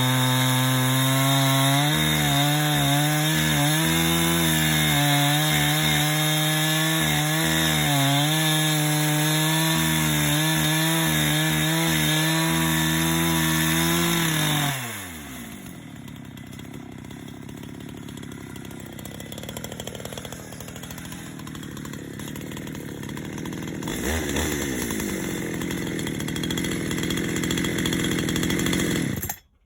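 Chainsaw on a bolt-on plank-cutting mill running at full throttle under load as it rips along a log, the engine note wavering slightly. About halfway through the revs fall away sharply, and a quieter, rougher sound follows until it stops abruptly near the end.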